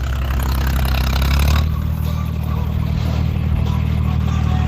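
John Deere tractor's diesel engine running loudly and steadily, its note shifting about a second and a half in.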